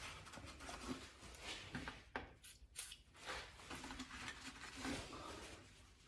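Faint, scattered handling noises: soft rubs and a few light clicks.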